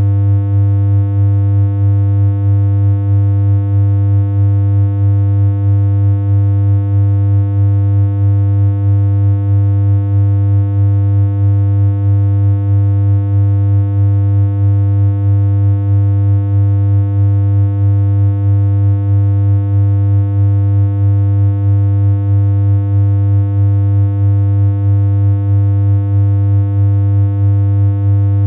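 Synthesized electronic hum: one steady, low, buzzy tone held without any change in pitch, with a faint regular pulsing in its level.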